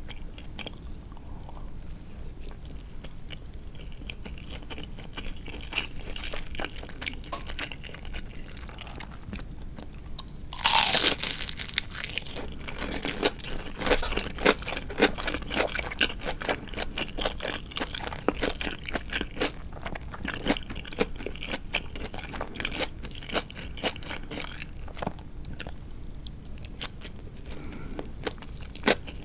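Close-miked eating sounds of crisp-coated tatsuta-age fried chicken: quiet small clicks at first, then a loud crunch of a bite about ten seconds in, followed by crunchy chewing with many sharp crackles that eases off near the end.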